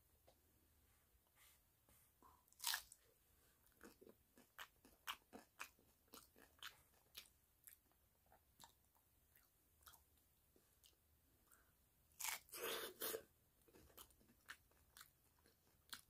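Crunchy tostada shell with ground meat being chewed: scattered crisp crunches and mouth clicks, with a louder burst of crunching about twelve seconds in.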